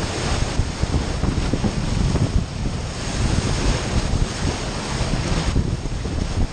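Wind buffeting the microphone in a gusting low rumble, over a steady rush of sea water and waves.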